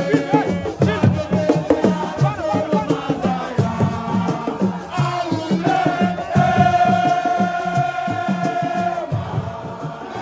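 Fast rhythmic drumming with a crowd chanting and singing along; about six seconds in, a voice holds one long note for some three seconds.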